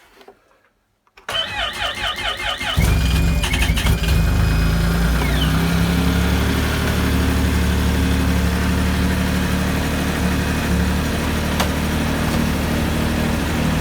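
Yamaha Sidewinder snowmobile's 998 cc turbocharged three-cylinder four-stroke engine cold-started at −26 °C coolant temperature: the starter cranks for about a second and a half, the engine catches about three seconds in, and it settles into a steady idle.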